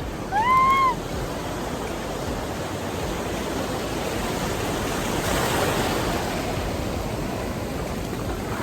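Ocean surf with big waves breaking and washing in: a steady rush that swells about five seconds in as a wave breaks. A short, high cry from a person rises and falls near the start.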